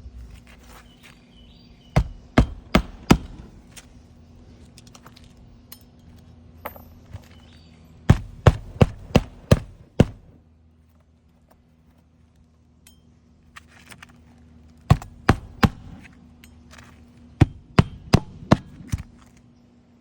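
Hammer driving roofing nails through a new asphalt shingle into the roof deck: four runs of quick blows, four to six strikes each, about three a second.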